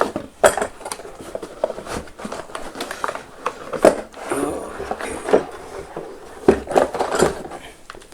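Metal tool parts and packaging being handled: a series of irregular clinks and knocks, the sharpest about four seconds in and again about six and a half seconds in.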